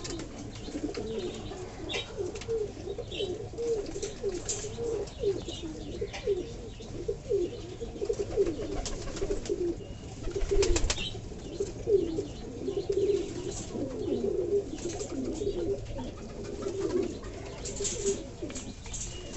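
Several domestic pigeons cooing continuously in overlapping low warbles while they eat soaked chickpeas, with scattered sharp clicks that are loudest around eleven seconds in.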